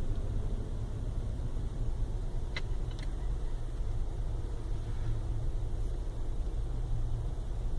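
Steady low rumble of a car's engine and tyres heard from inside the cabin while driving, with two faint clicks about two and a half seconds in.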